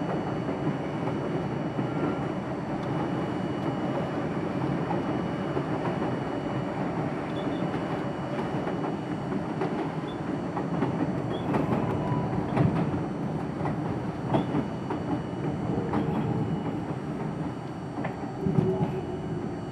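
R42 subway train running along the track, heard from inside the car at the front window: a steady rolling rumble of wheels on rail with clickety-clack and sharper knocks over the joints, more frequent in the second half.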